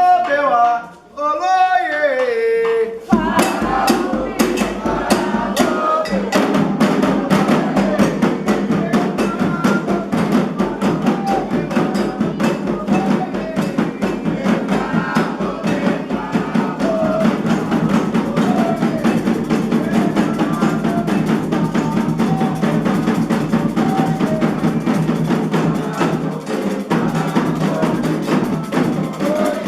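Candomblé ritual music: a single voice chanting, then from about three seconds in hand drums start up in a fast, steady rhythm under continuing sung voices.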